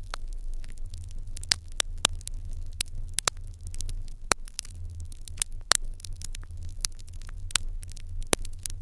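Fire in an irori hearth crackling, with irregular sharp pops over a soft hiss and a steady low rumble.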